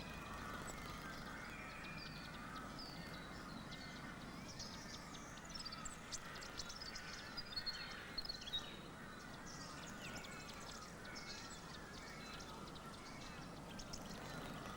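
Birds calling in the background: many short, high chirps and whistled notes, busiest around the middle, over a faint steady hiss of outdoor ambience.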